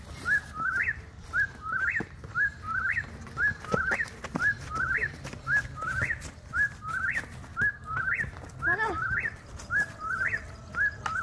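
A bird calling over and over: a short high note followed by a quick rising phrase, repeated evenly about every three-quarters of a second.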